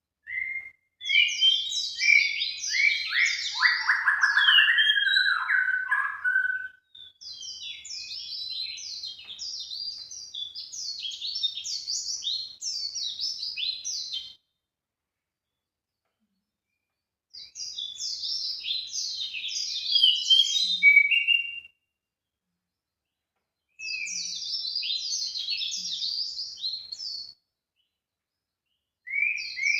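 Songbird song used as a bird-lure recording: long phrases of fast chirps and twitters, each lasting several seconds, separated by gaps of complete silence.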